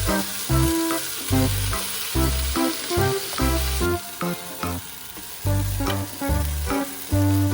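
Background music with a steady beat, over food sizzling as it fries in a pan. The sizzle thins out about halfway through.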